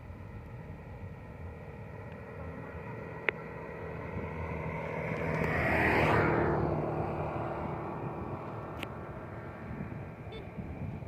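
A motor vehicle passes by, growing louder to a peak about six seconds in, its pitch dropping as it goes past, then fading away. A sharp click comes shortly before it arrives, and another after it has gone.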